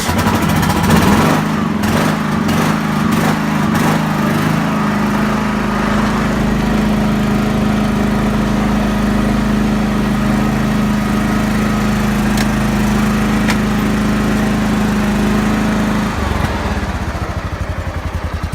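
1994 John Deere GT262 garden tractor's Kawasaki liquid-cooled V-twin running just after a cold start, holding a steady speed. About 16 seconds in it drops to a lower, slower idle with an even pulsing beat.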